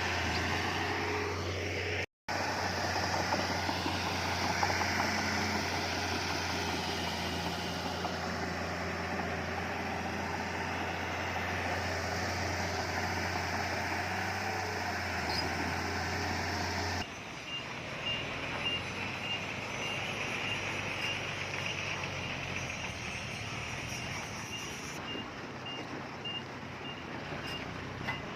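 Diesel engines of heavy earthmoving machinery running steadily. Partway through the sound changes abruptly to a quieter engine, with a vehicle's reversing alarm beeping at an even pace.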